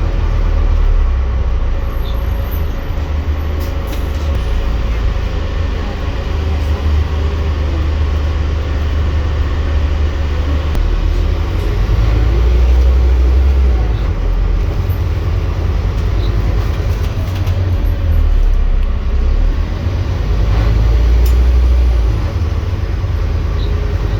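Scania N230UD double-decker bus's diesel engine running under way, a steady low drone that swells and eases in level, with road and body noise over it.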